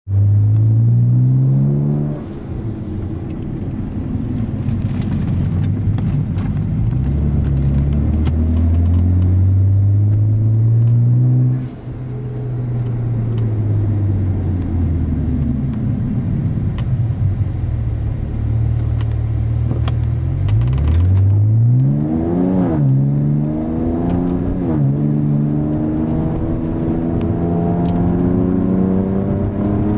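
Car engine and RSD exhaust pulling hard through the gears. The pitch climbs and drops suddenly twice, at about 2 s and again near 12 s, like gear changes. It then winds down and sits low for a few seconds, revs up sharply near 22 s, and climbs steadily through the rest.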